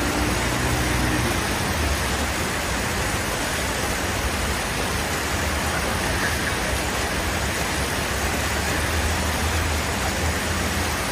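Steady loud rushing noise over a low engine hum.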